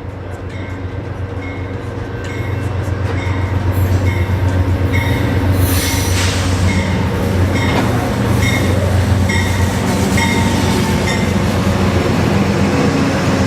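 Train rolling past, its low rumble growing louder over the first few seconds, with a regular ringing about twice a second and a brief high wheel squeal about six seconds in.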